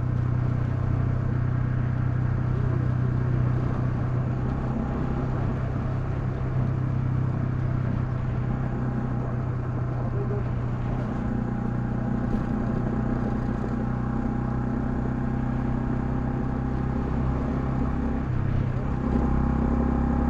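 Honda CL250 motorcycle engine running under way, a steady engine hum whose pitch steps down and up a few times as speed changes, with a brief change near the end.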